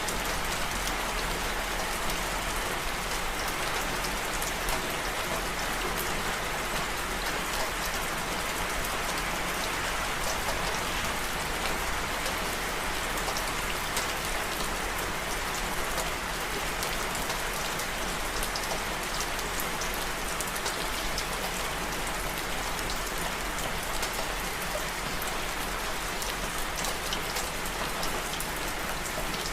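Steady rain falling, a dense even patter of drops with fine high ticks of individual drops.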